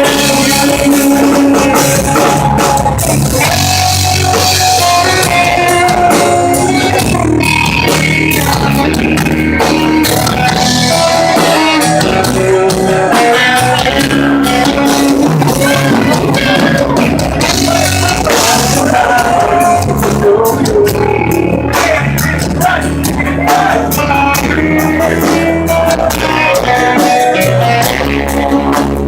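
Rock music with electric guitar and a drum kit playing loudly and continuously.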